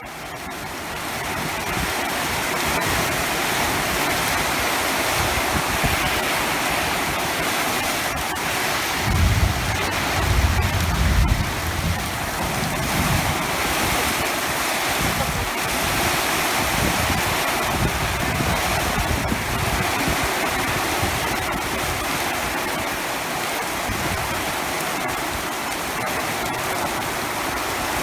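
Heavy rain pouring steadily, fading in over the first second or two. A low rumble swells about nine seconds in and lasts a couple of seconds.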